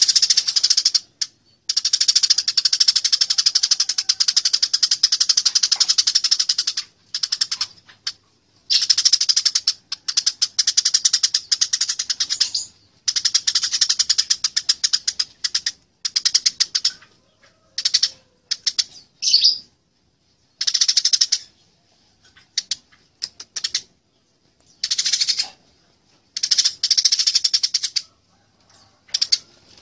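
Eurasian tree sparrows' fighting chatter: rapid, harsh, high chirping in runs lasting from under a second to several seconds, broken by short abrupt silences.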